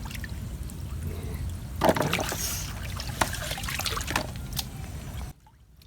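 Water trickling and splashing around a small rowed boat, with a few sharp knocks and a louder splash about two seconds in. The sound cuts off suddenly near the end.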